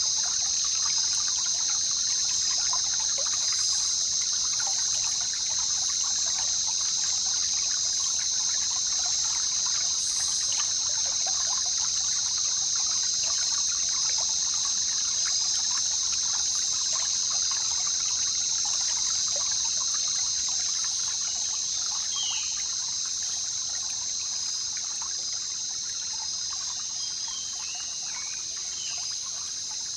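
Jungle river water trickling and babbling over a steady high-pitched insect drone. A few short, falling bird chirps come in during the last third.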